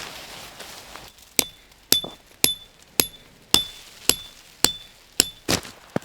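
A hammer striking metal nine times at a steady pace of about two blows a second, each blow ringing briefly with a bright metallic tone.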